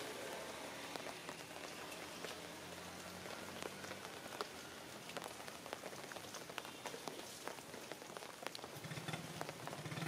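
Steady rain falling, an even hiss with many scattered ticks of individual drops.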